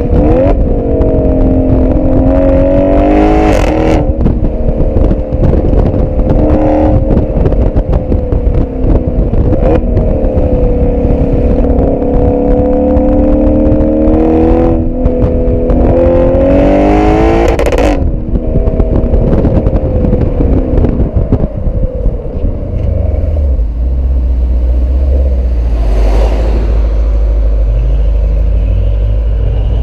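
Audi RS6 C7's twin-turbo 4.0 V8 through an Akrapovic exhaust, heard at the tailpipes while driving: the revs climb and drop in several pulls during the first eighteen seconds, then settle to a low, steady note at low revs. Wind rumble on the microphone runs underneath.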